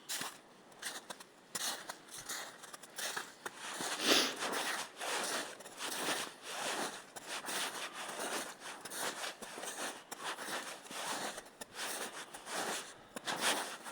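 Footsteps crunching and crackling on the forest floor at a steady walking pace, about two steps a second.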